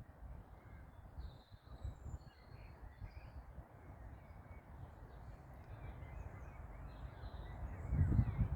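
Faint, scattered bird calls at dusk over an uneven low rumble; the rumble swells sharply near the end.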